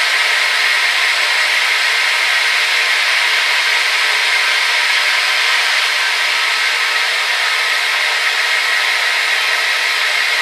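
Hair dryer running steadily: a constant rush of blown air with a faint motor whine, bright and hissy with almost no low rumble.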